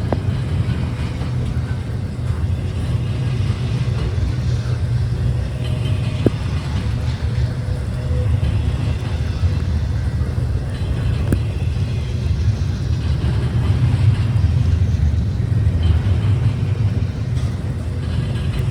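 Steady low rumble of a moving vehicle, with a couple of faint clicks about six and eleven seconds in.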